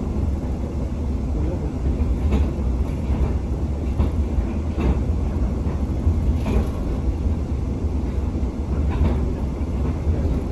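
Tsugaru Railway stove train heard from inside the carriage while running: a steady low rumble with a few scattered clacks from the wheels on the track.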